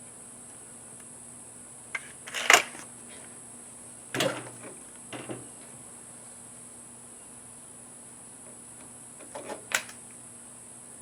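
Remington Express .177 break-barrel spring-piston air rifle being fired and worked: a loud sharp report about two and a half seconds in, then a few clunks and clicks around four to five seconds in, and another sharp crack near the end.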